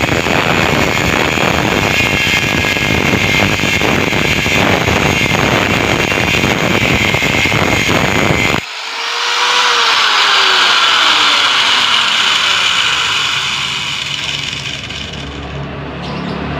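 Angle grinder cutting into the steel shell of a refrigerator compressor, a loud steady grinding. About eight and a half seconds in it changes abruptly to a thinner, high-pitched grinding with a whine that slides down in pitch.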